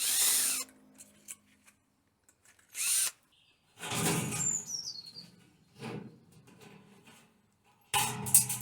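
Power drill drilling out pop rivets in a kit car's body panels, in several short bursts a couple of seconds apart, the motor spinning down after each.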